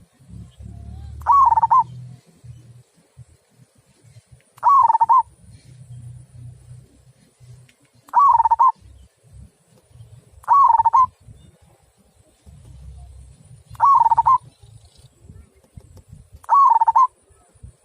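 Local zebra dove (perkutut) cooing: six short calls, each about half a second long and spaced roughly three seconds apart, with a low rumble between them.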